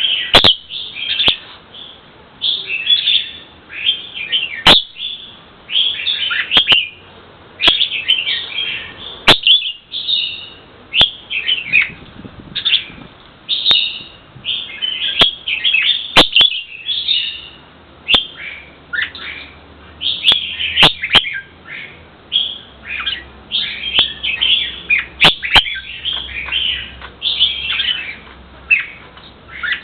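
A bird chirping continuously in quick runs of short, high chirps, with a sharp click every few seconds.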